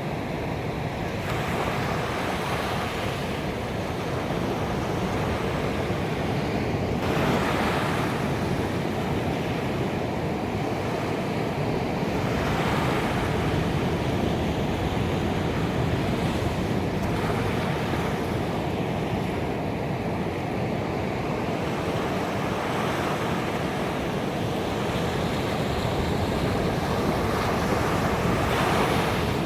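Ocean waves breaking on a beach: a continuous wash of surf that swells a little louder every few seconds.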